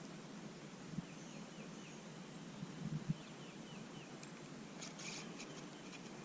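Faint bird calls outdoors: a run of short, downward-sliding chirps repeated several times. A few soft knocks come with them, the loudest about three seconds in.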